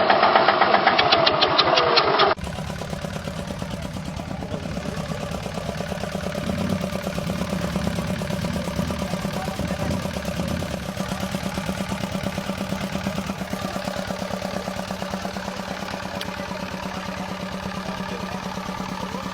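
Engine of a home-built motorcycle running at a steady speed. A louder passage cuts off abruptly about two seconds in, and the running swells slightly a few seconds later.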